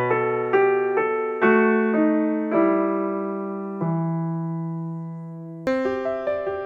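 Background piano music: a slow melody of struck notes that ring and fade, with a louder chord near the end.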